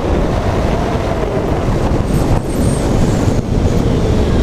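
Zero SR electric motorcycle's motor whine under full-throttle acceleration, climbing in pitch and then dropping away later as the throttle eases, over loud wind rush on the microphone.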